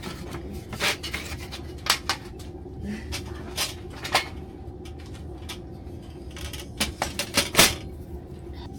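Dishes and cutlery clinking and clattering as they are handled, a string of short knocks that comes faster and louder near the end, over a steady low hum.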